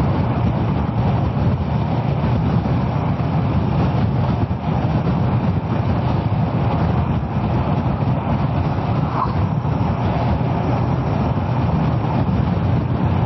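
Kawasaki ER-6f parallel-twin motorcycle being ridden at a steady pace: a dense, even rush of engine, wind and road noise on the rider's microphone, with no change through the stretch.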